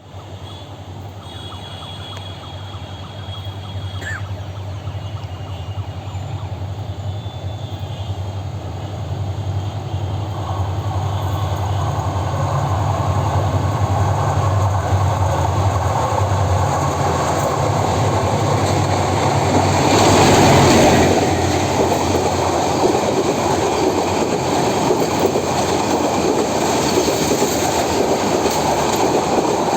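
Diesel locomotive approaching and passing on meter-gauge track: a low engine drone grows steadily louder, peaks about two-thirds of the way through as the locomotive goes by, then gives way to the continuous rattle and clatter of the coaches rolling past.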